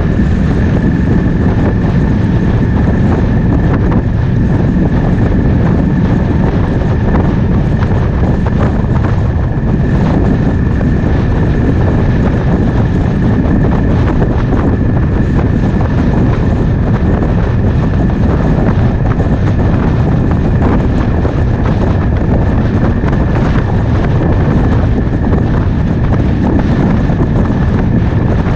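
Triumph Speed Twin 1200 parallel-twin engine running steadily while riding, under heavy wind buffeting on the microphone.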